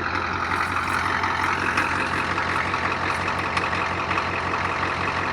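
Ford 7.3-litre turbo diesel V8 idling steadily without throttle, still cold from a cold start.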